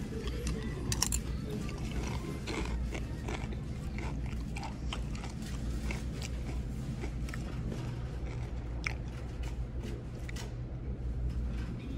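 Close-up chewing and crunching of tortilla chips, with scattered sharp crunches, over a steady low hum.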